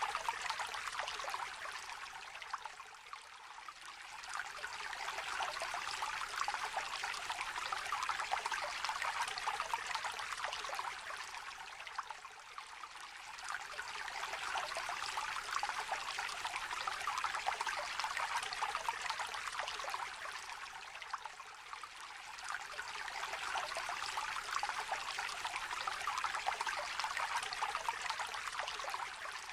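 A small river trickling gently, a steady babble of running water that eases off and swells back about every nine seconds.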